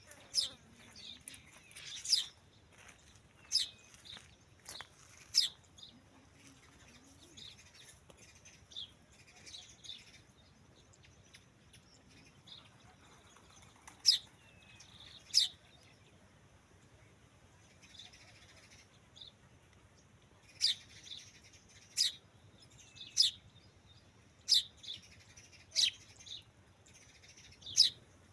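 A bird chirping: short, sharp, high chirps, one every second or so, with a pause of a few seconds in the middle and a steadier run of chirps through the last part.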